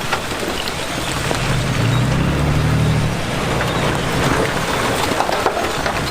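Diesel engine of heavy earthmoving machinery running, its hum louder for a second or so about two seconds in, with scattered knocks and rattles of working gear.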